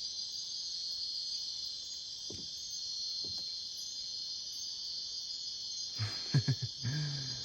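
Steady, high-pitched insect chorus in tropical forest, continuous throughout. A person's voice speaks briefly about six seconds in.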